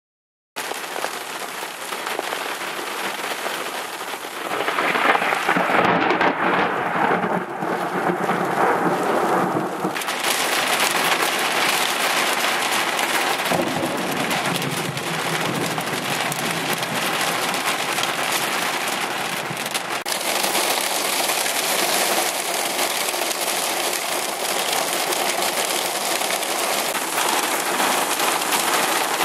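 Heavy rain pelting a car, heard from inside the vehicle; it starts abruptly and is loudest about five to ten seconds in.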